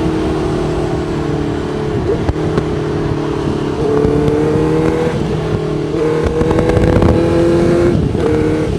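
Honda CBR1000RR's inline-four engine running hard under acceleration, its pitch stepping up and down a few times, over a steady rush of wind noise.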